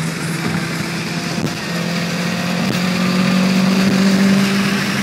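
Toyota Corolla S 1.8-litre four-cylinder, breathing through an Injen short ram intake and Magnaflow exhaust, held at high revs. The revs and loudness step up a little over halfway through.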